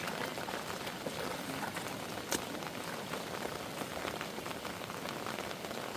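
Heavy rain falling steadily, a dense even hiss with scattered drop ticks and one sharper tap a little over two seconds in.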